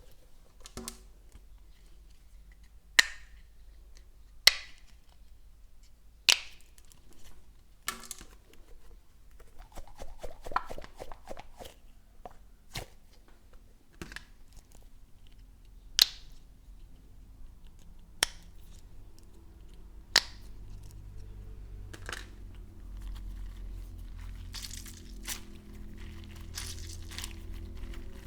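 Plastic fidget toys being handled: single sharp pops or clicks every couple of seconds, with bursts of crinkling in between.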